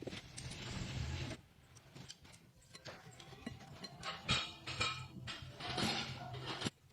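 Scattered mechanical clicks and clinks, irregular and of varying loudness, after a short stretch of noise at the start.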